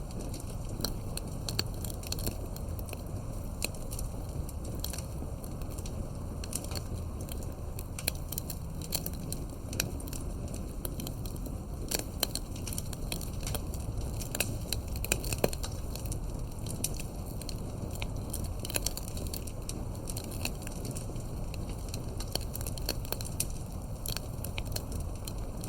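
Wood campfire burning with a steady low rumble of flames and frequent irregular sharp crackles and pops.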